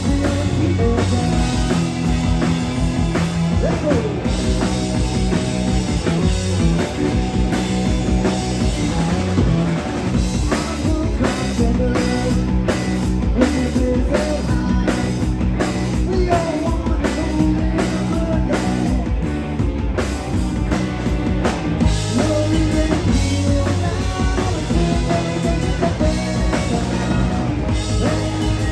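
Live rock band playing a song, drum kit and bass up front.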